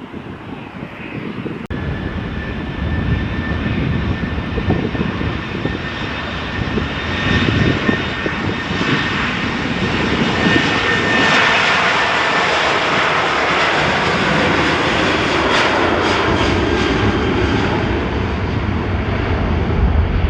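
Airliner's engines running close by, a dense roar with a steady whine that builds over the first half and then stays loud.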